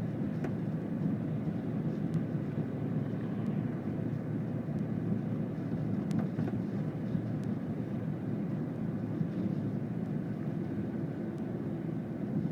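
Steady road and engine noise inside a moving car's cabin, a low even rumble, with a few faint clicks.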